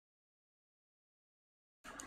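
Near silence, with a faint noise starting just before the end.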